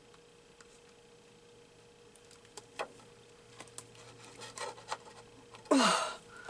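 Light clicks of a hand-squeezed eyelet-setting tool being handled. Near the end comes one loud, short squeeze with a falling creak as the tool clamps down and sets the eyelet, crushing it out of round.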